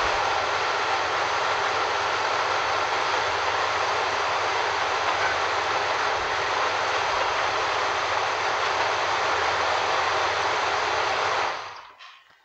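Dodge Durango 5.9-litre V8 engine running steadily at idle while the brake pedal is tried after a master cylinder replacement. It is shut off near the end, and the sound falls away within about half a second.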